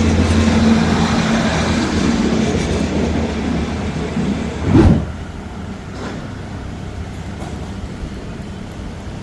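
Diesel train running past on the Maeklong line, its engine drone and wheel rumble slowly fading. A brief loud thump comes about halfway through, after which the sound is much quieter.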